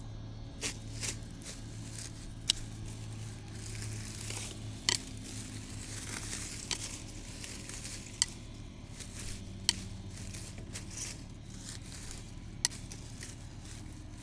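Rustling and crackling of weeds and brush being pulled and handled, with a sharp snap or click every two to three seconds.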